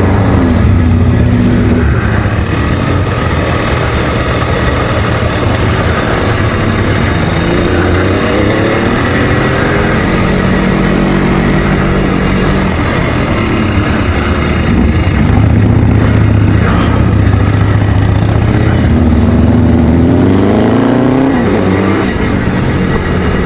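Motorcycle engine accelerating while riding, rising in pitch twice as it pulls through the gears, under heavy wind rush.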